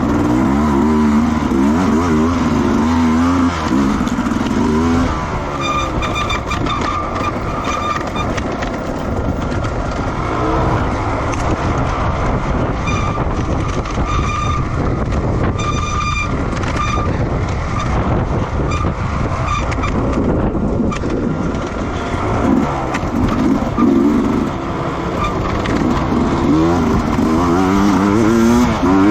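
Racing motorcycles at speed on a circuit, their engine notes rising and falling as they rev through the gears and pass, loudest in the first few seconds and again near the end.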